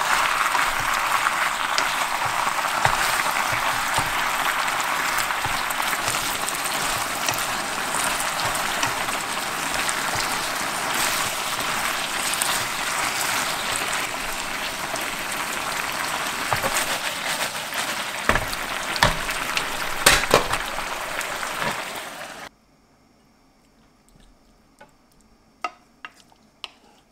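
Lettuce and chicken in black bean sauce sizzling steadily in a hot frying pan while being stirred, with a few sharp knocks near the end. About 22 seconds in, the sizzle cuts off abruptly, leaving quiet with a few faint clicks.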